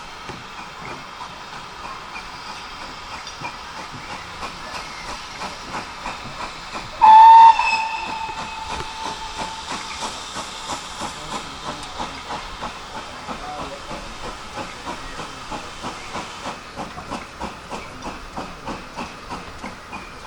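Great Western Manor class 4-6-0 steam locomotive with a steady hiss of steam and a rhythmic exhaust beat of about two to three chuffs a second. Its whistle gives one short, loud blast about seven seconds in.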